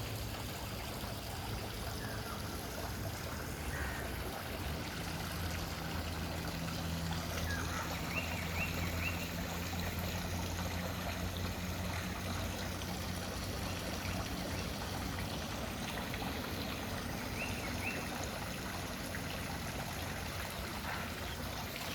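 Wild birds chirping a few times in quick groups of about three short notes, over a steady rushing noise and a low hum.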